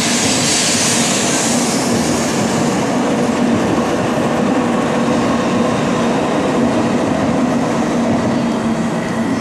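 Sanyo Shinkansen train running: a steady rumble with a low hum, and a hiss that is strongest at first and fades over the first few seconds.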